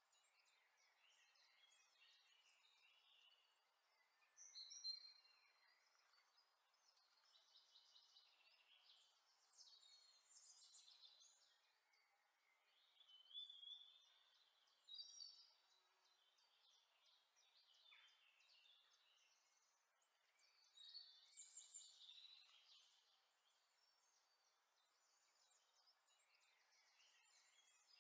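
Faint birdsong: several birds chirping and trilling in short phrases, with louder spells of song about five seconds in, around ten to fifteen seconds, and again a little past twenty seconds.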